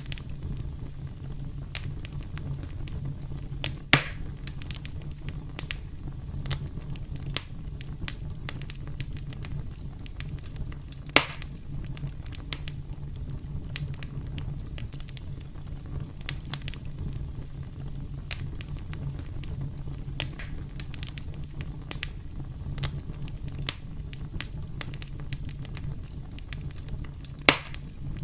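Campfire crackling: burning wood giving off frequent small snaps over a steady low rumble, with three louder pops, about 4 seconds in, about 11 seconds in, and near the end.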